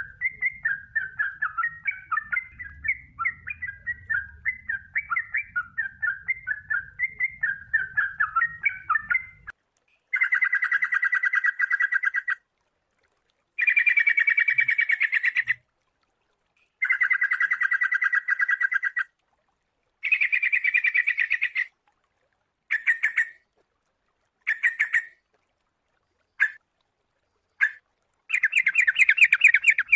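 Sooty-headed bulbul (kutilang) song: a run of quick, varied warbling notes, then from about ten seconds in a series of rapid rattling trills in separate bursts of one to two seconds, getting shorter near the end.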